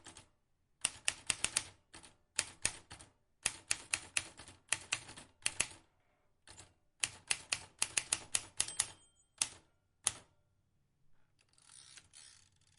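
Vintage manual typewriter keys striking in quick bursts of several clicks, with short pauses between the bursts. The typing stops about ten seconds in and is followed by a longer rasping noise lasting about a second.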